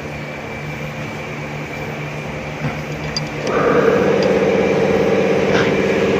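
A steady low hum, then about halfway through an engine starts up and settles into a steady idle, clearly louder than the hum.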